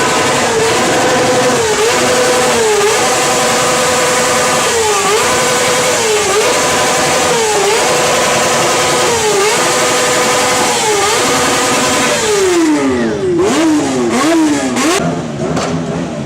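Motorcycle engine with an open exhaust being revved while standing still in neutral. It is held at high revs with brief dips every second or so, then near the end it drops and is blipped up and down a few times.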